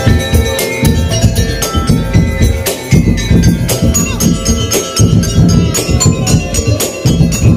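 Madurese daul (tong-tong) music: a loud percussion ensemble playing a fast, driving rhythm of heavy drum beats and sharp knocks, with ringing pitched notes over it.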